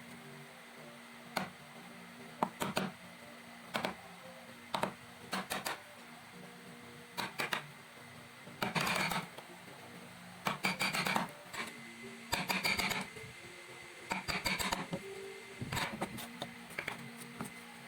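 Hand work in a woodworking shop: scattered knocks and clicks with several short scraping bursts, as wooden pieces are handled and fitted, over a low steady hum. No saw is cutting.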